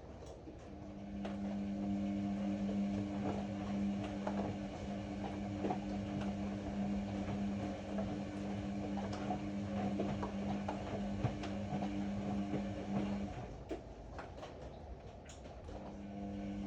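Ariston AML125 washer-dryer's drum motor running with a steady hum, stopping about 13 s in and starting again about two seconds later, the stop-and-restart rhythm of a tumbling drum. Light clicks and ticks sound throughout.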